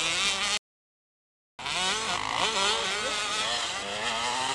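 Motocross motorcycle engines revving, several pitches rising and falling at once. The sound drops out completely for about a second just after the start, then resumes.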